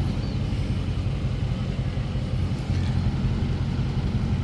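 A car engine idling steadily, heard as a low, even rumble with no revving.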